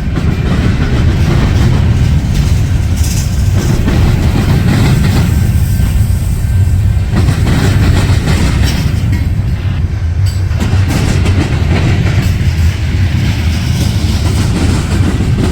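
Union Pacific freight train rolling past: a steady, loud rumble of wheels on the rails.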